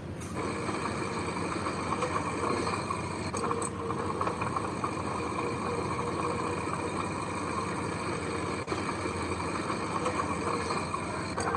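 Diesel engine of heavy earthmoving machinery (bulldozer or dump truck) running steadily.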